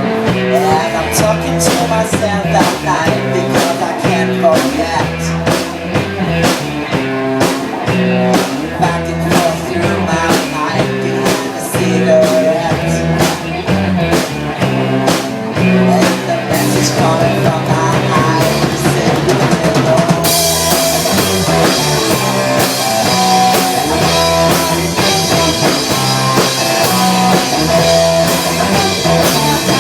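A rock band playing: drum kit with bass drum and snare strokes, guitar and bass. About two-thirds of the way through, cymbals start ringing continuously over the beat.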